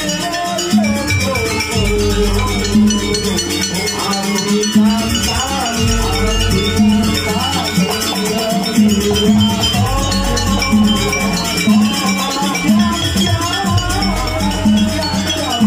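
Live jaranan accompaniment music. A wavering melody line plays over evenly repeated pitched beats, with a deep low tone returning about every four seconds, and some rattling percussion.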